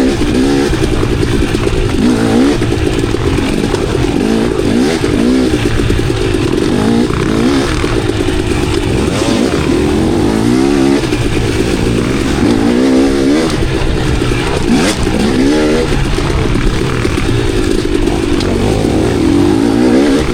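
Enduro dirt bike engine being ridden hard, its pitch rising and falling constantly with the throttle, with the clatter of the bike over rough ground.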